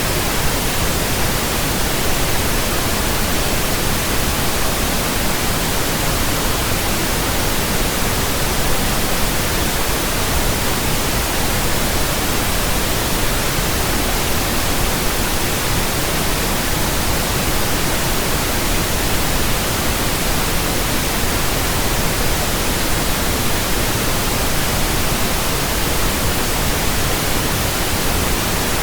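Steady pink noise from a pink noise generator, an even, unchanging hiss across the whole range, played as a burn-in track for breaking in new speakers, headphones and earphones.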